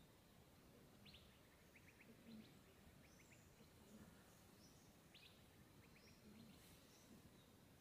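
Near silence: faint outdoor ambience in which a small bird gives short clusters of quick chirps every second or two.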